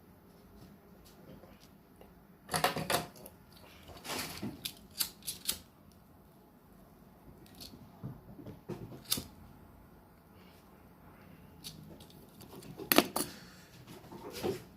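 Scattered clicks, taps and rustles of small objects being handled up close, in several short clusters with quieter gaps between.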